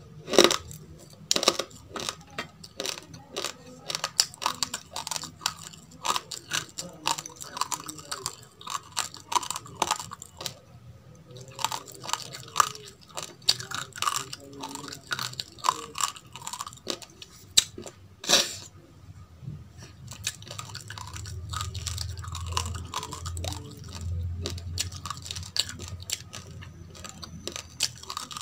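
Chewing a mouthful of raw basmati rice close to the mic: dense, irregular crunching and crackling of the hard grains. A few sharper cracks stand out, one just after the start and one past the middle.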